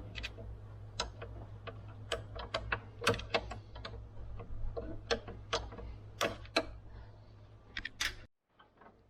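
Scattered sharp metallic clicks and taps of hand tools working loose nuts, at an irregular pace, over a low steady hum that cuts off suddenly near the end.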